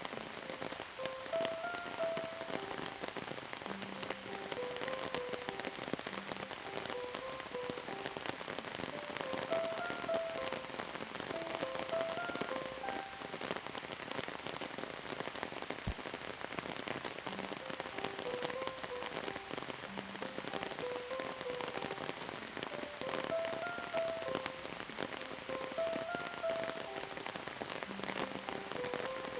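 Steady rain falling, many fine drops pattering, with a soft melody of short pitched notes repeating in phrases over it.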